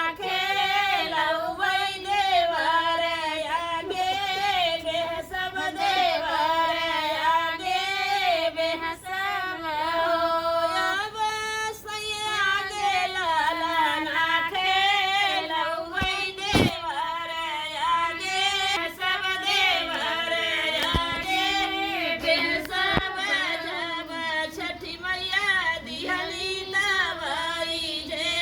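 A woman singing a Chhath Puja devotional folk song, one voice carrying a wavering melody in long phrases. A couple of brief knocks sound a little past the middle.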